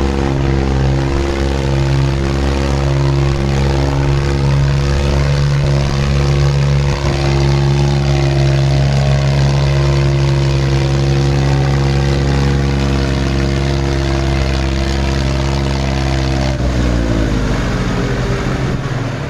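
Tractor diesel engine running at steady high revs under heavy load, straining to pull a trolley out. About sixteen seconds in, the revs drop away.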